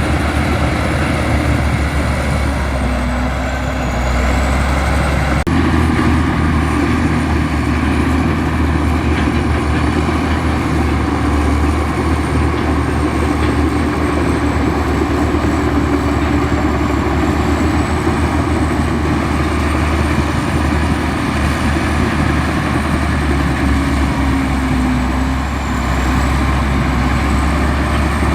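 Heavy diesel earthmoving machinery running steadily under load, a deep engine rumble with mechanical clatter, with a sudden shift in the sound about five seconds in.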